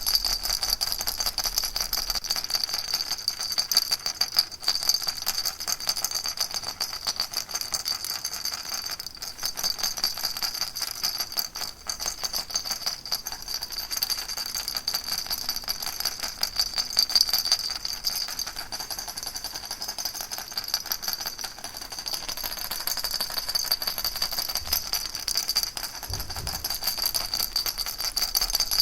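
Baby rattle shaken continuously, giving a dense, steady stream of fine rattling clicks.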